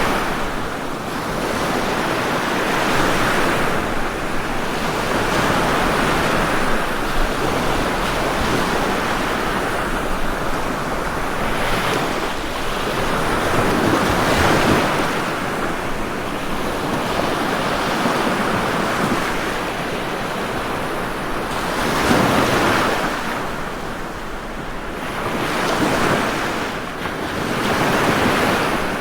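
Ocean waves breaking and washing in, a steady rush of surf that swells with each wave every few seconds.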